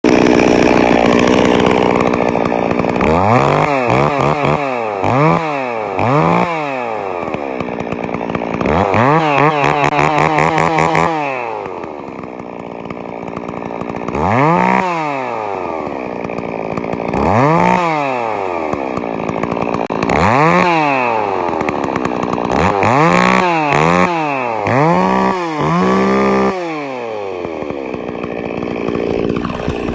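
Stihl 026 two-stroke chainsaw with its ignition timing advanced, blipped repeatedly from idle. The engine speed rises and falls quickly each time, is held high once for about two seconds, and ends with a quick run of five blips before settling back to idle.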